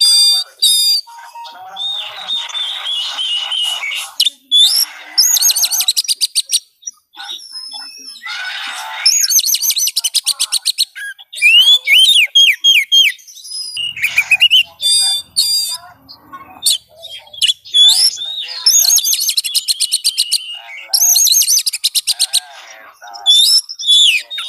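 Oriental magpie-robin (kacer) singing in full voice, a varied run of sliding whistles, rapid high trills and harsh buzzy chattering phrases with short pauses between them. This is a lure recording, played to provoke a quiet kacer into answering.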